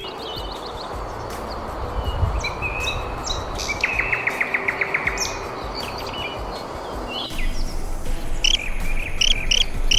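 Songbirds chirping and calling in short phrases, with a quick run of about nine repeated notes about four seconds in. Underneath is a steady rushing hiss, like water or wind, that stops about seven seconds in.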